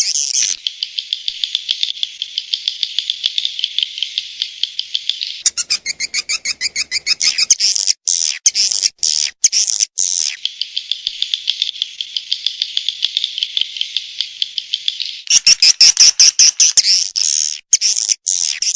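Swiftlet calling sound, a lure track of rapid, high twittering chirps and clicks in fast pulsing trains. It grows louder and choppier about five seconds in and again near the end.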